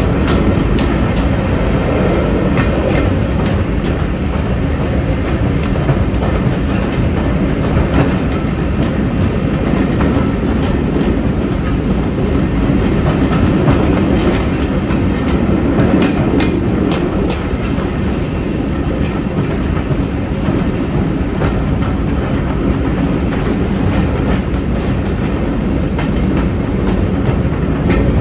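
Passenger coach of a steam-hauled train running through a tunnel: a steady, echoing rumble of wheels on the rails, with a few sharp clicks about halfway through.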